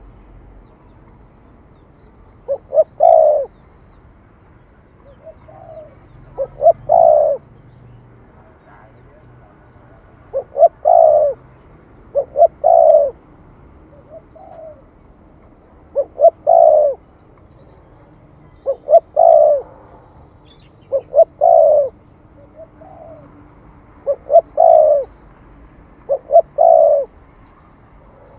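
Spotted dove cooing in its 'thổ thúc gù' call style: the same phrase repeats about every two seconds, two short notes followed by a longer one, with a softer single note between some phrases.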